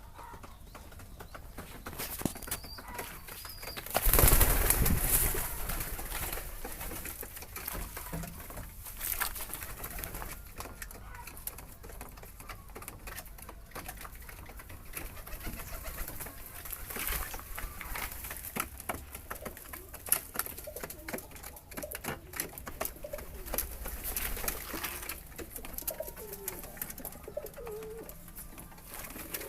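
Racing pigeons cooing while being fed, with many sharp taps throughout and a loud rustling burst about four seconds in.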